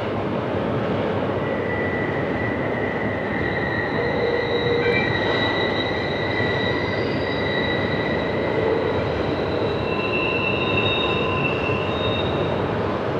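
Double-stack intermodal freight train rolling along curving track, a steady rumble of cars with high-pitched wheel squeal from the curve setting in about a second in, several squealing tones overlapping and shifting.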